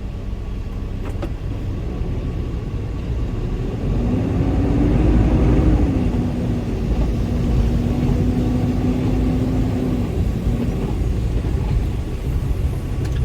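Semi truck's diesel engine running under way, heard from the cab: the engine note rises about four seconds in, eases back, then holds steady before fading out around ten seconds, over a constant low road rumble.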